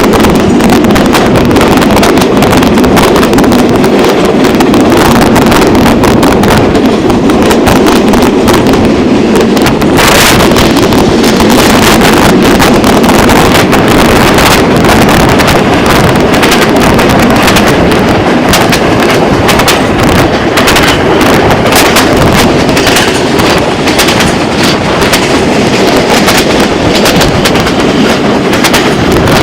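A moving passenger train running loud and steady, its carriages clattering and rattling with many sharp clicks, and wind buffeting the microphone.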